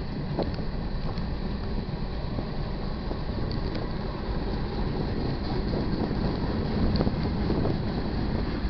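Union Pacific freight train rolling through a grade crossing: a steady low rumble with a few faint clicks.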